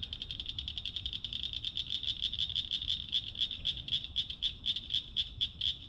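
A chorus of calling animals out in the open: a high, steady, pulsing trill held at one pitch, several pulses a second.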